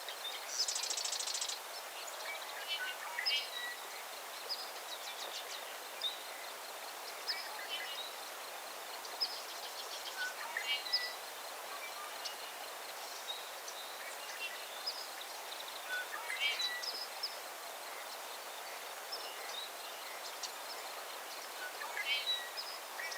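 Songbirds calling and singing over a steady hiss of outdoor ambience: short high chirps every second or so, several quick descending trilled phrases, and a brief buzzy rattle near the start.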